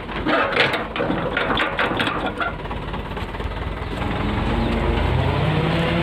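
Dump truck engine running with an uneven clatter for the first couple of seconds, then speeding up about four seconds in and holding a steadier, louder hum.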